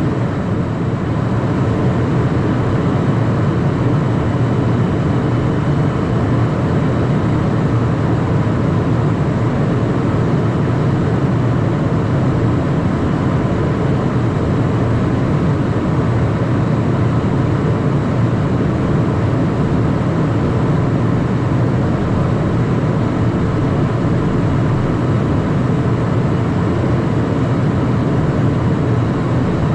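Steady cockpit noise of a Cessna Citation Mustang light jet: a loud, unchanging rush of airflow and twin turbofan engines, heaviest in the low range, with a few faint steady whining tones above it.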